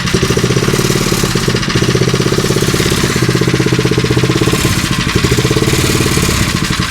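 Late-1960s Galaxy minibike's small engine running steadily on choke, with a fast, even pulse. It starts readily but won't run off choke.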